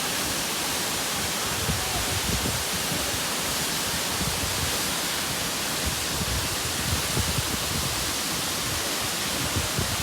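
Steady rushing roar of Bomburu Ella, a wide waterfall, as falling water, with some uneven low rumbling underneath.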